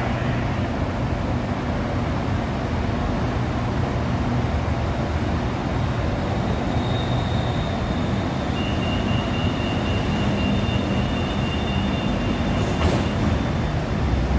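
Bangkok MRT Pink Line monorail train (Innovia Monorail 300) giving off a steady rumble, with a thin high whine over the middle stretch and a sharp click near the end.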